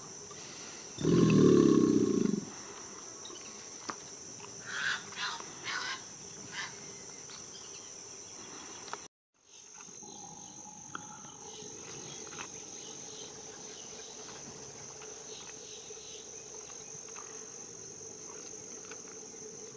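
An alligator's low, rumbling bellow about a second in, lasting just over a second, over a steady high insect drone. A few short high calls follow a few seconds later.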